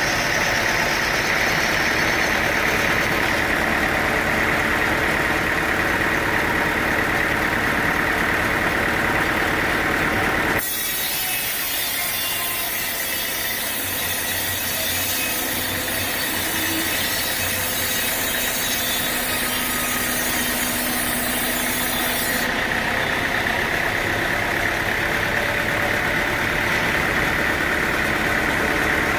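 Sawmill machinery running steadily while a saw cuts through timber. The sound changes abruptly to a brighter, hissier cutting sound about ten seconds in, then switches back about twenty-two seconds in.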